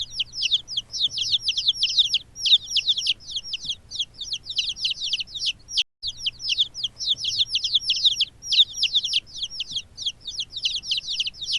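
Chickens calling: a dense run of quick, high calls that each fall in pitch, several a second, broken by a brief gap about halfway through.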